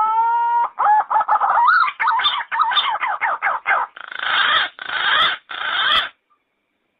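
Yellow-footed green pigeon calling: a rising whistled note, then a quick run of wavering, warbling whistles, ending in three harsher, raspier bursts before it stops about six seconds in.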